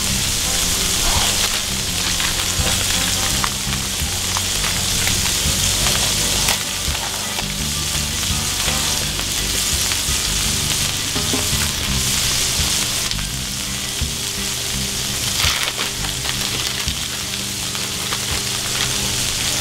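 Ground-beef patties and sliced onions sizzling in their fat on a hot flat-top griddle: a steady hiss scattered with small crackles and pops.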